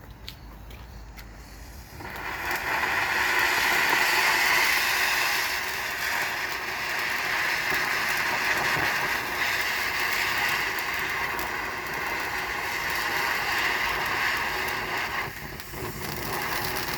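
Brothers 'Shining Saucer' fountain firework catching about two seconds in and spraying sparks with a loud, steady hiss that dips briefly near the end.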